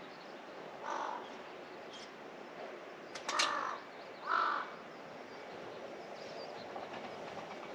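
Crow cawing three times, short harsh calls about a second in and twice more a little past three and four seconds in, over steady outdoor background hiss.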